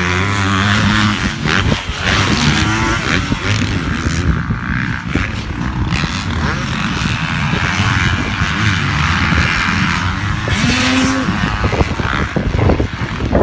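Dirt bikes running on a motocross track during a class, their engines revving up and down.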